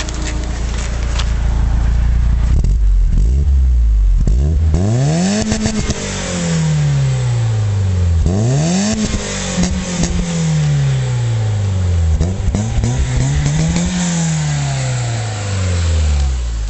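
BMW E30 318is four-cylinder engine running through a 325i rear silencer, idling at first and then revved three times, each rev climbing quickly and sinking back slowly.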